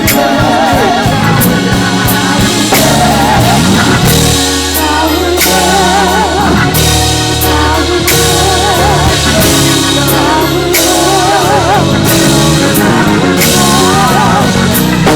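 Live gospel band playing: drum kit with regular cymbal and snare hits over steady bass notes, with a voice singing long notes with wide vibrato.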